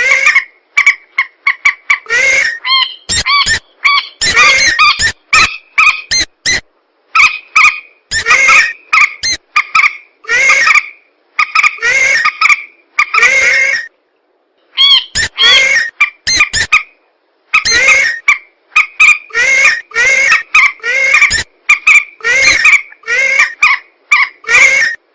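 Bird-lure recording of rails (mandar and pelan marsh birds) calling: loud, fast series of short, harsh, repeated calls, overlapping in places, with abrupt silent breaks, one lasting about a second midway.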